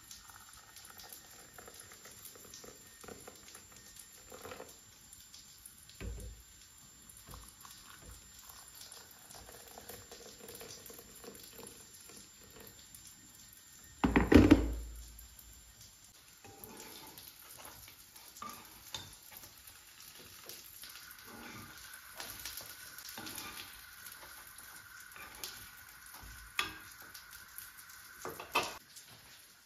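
Quiet kitchen handling sounds: soft knocks and clinks of crockery and utensils over a faint hiss, with one loud thump about halfway through and a few sharper knocks near the end.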